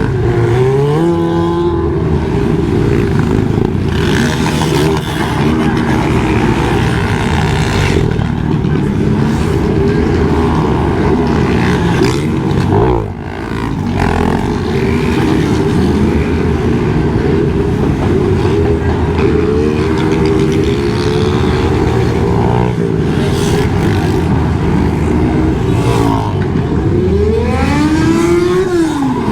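Several motorcycle engines running together and being revved, their pitches rising and falling over one another. A rev sweeps up about a second in, and another climbs and drops near the end.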